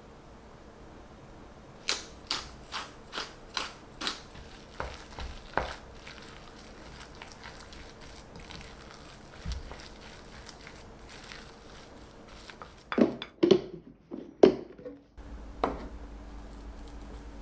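Kitchen handling sounds: a run of light clicks and knocks about two a second, then a few louder clattering knocks near the end, followed by a steady low hum.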